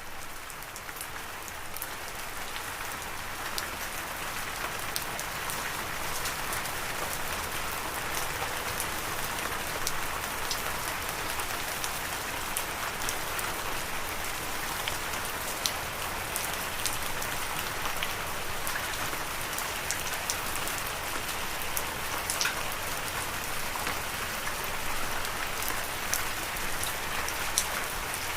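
Steady rain falling, a constant hiss with many individual drops ticking sharply on top. It swells a little over the first couple of seconds, then holds steady.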